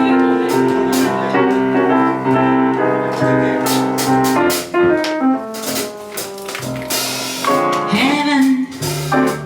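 Live jazz combo playing a tune, a melody of held notes over the band.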